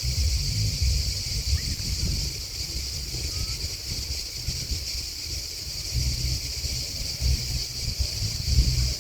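A steady, unbroken chorus of chirping crickets and grasshoppers, high-pitched and continuous. Underneath, wind buffets the microphone with a low, uneven rumble.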